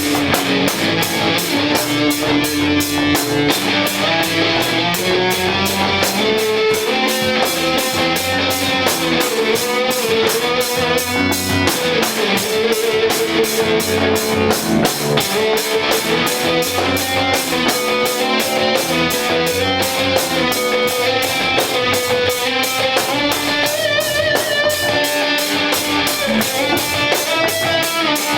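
Live garage punk rock band playing an instrumental passage: electric guitar over a drum kit keeping a steady fast beat on the cymbals, with no singing.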